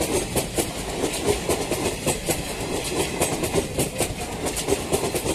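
Train wheels clattering over rail joints in a rapid, uneven clickety-clack, over a steady rolling rumble.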